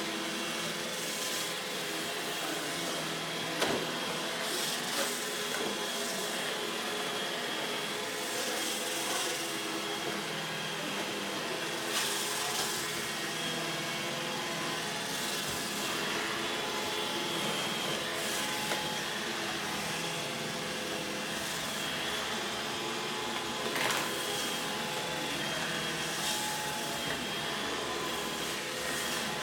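iRobot Roomba E5 robot vacuum running, a steady whir from its vacuum motor and brushes with a high whine. A few short knocks, about 3.5, 12 and 24 seconds in, as it bumps into obstacles.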